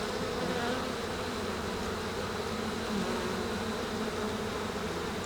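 Honeybee colony buzzing steadily around an open hive, a dense even hum of many bees. The colony is hot: defensive and stinging, with many capped queen cells and no queen found.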